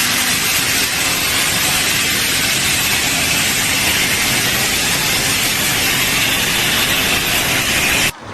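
A loud, steady hiss of rushing noise with no clear tone, cutting in abruptly and cutting off suddenly near the end.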